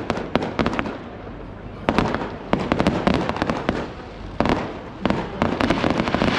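Fireworks display: volleys of sharp bangs and crackling shells going off in quick clusters, with short lulls between them.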